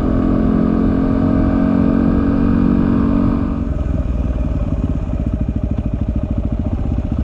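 Motorcycle engine under way, running at a steady pitch, then easing off about three and a half seconds in to a lower, throbbing beat.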